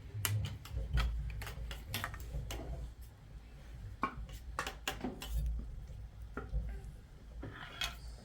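Irregular light clicks and knocks of dishes and utensils being handled, over a low steady rumble.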